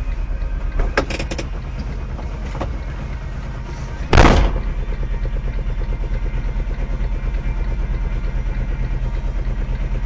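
Vehicle engine running with a steady, rhythmic throb, a few sharp clicks about a second in, and a short loud rush about four seconds in. After the rush the throbbing is stronger.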